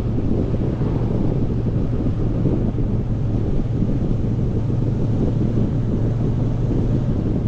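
Motorcycle engine running at a steady pitch with no revving, under wind rushing over the microphone.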